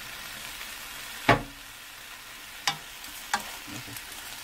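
Blanched butterbur greens sizzling in oil in a frying pan as they are stir-fried with a wooden spatula. Three sharp knocks of the spatula against the pan: a loud one about a second in and two lighter ones later.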